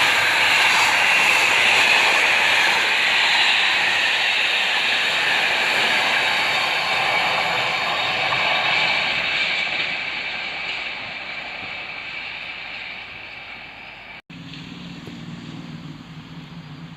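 A train passing close by, a loud rushing noise that fades away over several seconds as it recedes. Just after it has faded there is a brief break in the sound, and a quieter low hum follows.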